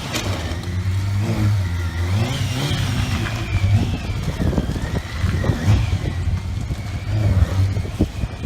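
Motorcycle engine running, its revs rising and falling.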